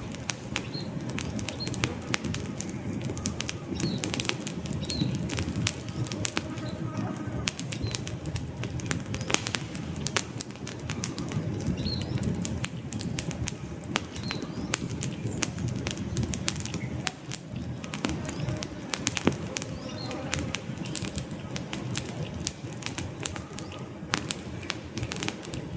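Wood fire crackling with frequent sharp pops over a steady low rumble of burning logs.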